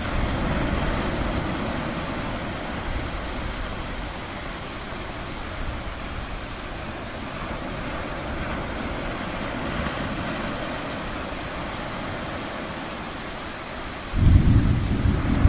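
A steady wash of ocean waves. Near the end, a deep rumble of thunder breaks in suddenly and becomes the loudest sound.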